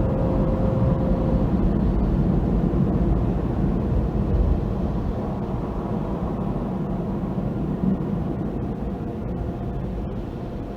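Steady low rumble of automatic car wash machinery, slowly fading.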